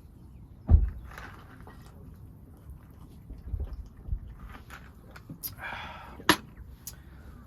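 A beer can being handled and opened: a knock, a few soft thuds, then a short fizzing hiss and a sharp click.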